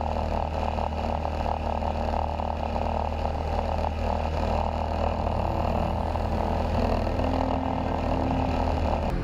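Cessna 152's four-cylinder Lycoming engine and propeller droning steadily in flight, heard from inside the cockpit, with a slight change in tone about five seconds in.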